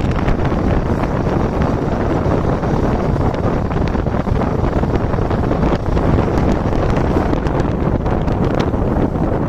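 Steady wind rushing over the microphone of a rider on a moving motorcycle at speed, mixed with the low rumble of the ride.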